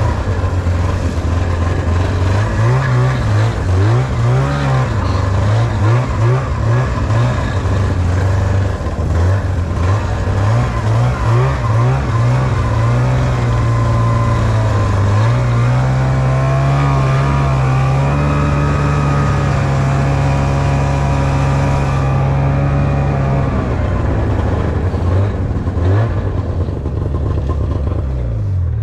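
Snowmobile engine under throttle, revving up and down repeatedly, then holding steadier higher revs for several seconds before dropping back and cutting off near the end.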